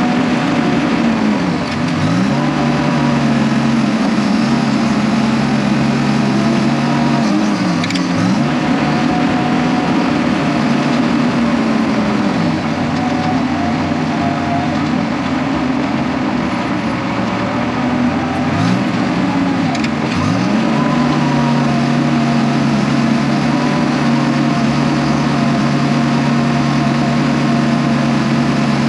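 Diesel engine of a heavy earthmoving machine running steadily under load. A few times its pitch sags briefly and recovers as the engine lugs.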